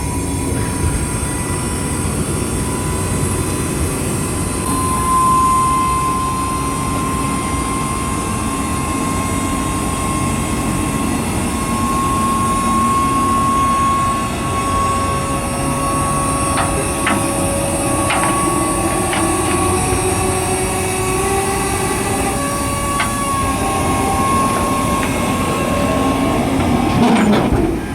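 Heavy machinery running with a continuous rumble and a steady high whine, with a few sharp clicks and knocks in the second half.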